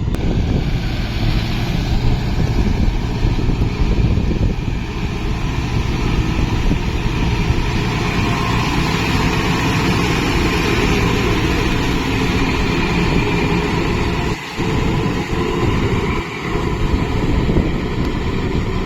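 Kubota MU 5502 tractor's diesel engine running steadily while working a rotavator, with two brief dips in level near the end.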